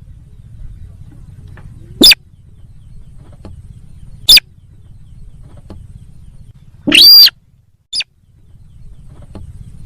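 Sintar sawah lure call: short, sharp, very loud call notes about every two seconds, with a longer call about seven seconds in. A low hum runs underneath between the calls.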